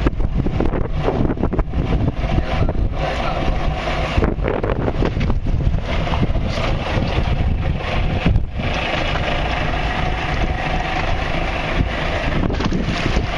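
Wind buffeting the microphone over a boat's engine running steadily.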